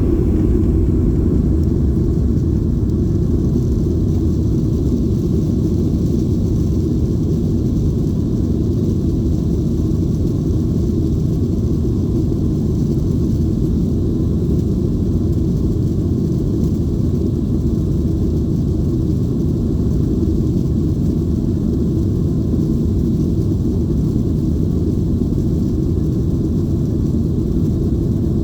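Steady low rumble inside the cabin of a Boeing 737-800 in flight: its CFM56 engines and the rushing air, holding an even level throughout.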